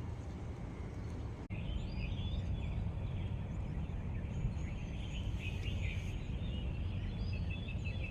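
Small birds chirping, with many short, high calls overlapping, over a steady low background rumble. The chirping starts after a brief break about a second and a half in.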